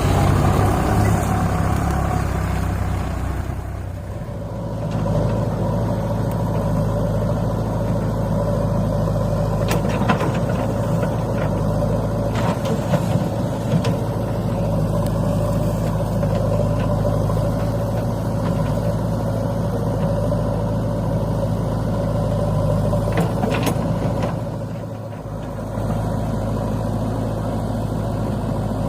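Heavy diesel engine running steadily, easing off briefly twice, with a few sharp knocks along the way.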